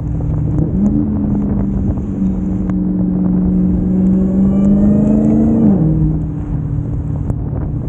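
Dodge Hellcat Redeye's supercharged 6.2-litre V8 accelerating, heard from a phone mounted outside on the windshield. The engine note climbs about a second in, and a rising supercharger whine builds over it through the middle. The revs then drop off suddenly near the end.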